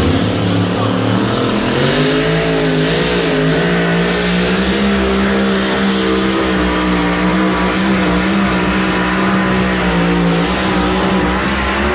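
Pulling-class engine running hard at high revs under load during a pull. Its pitch wavers in the first few seconds, then holds steady. The engine is one that is not at 100% after a broken valve and a replacement cylinder head.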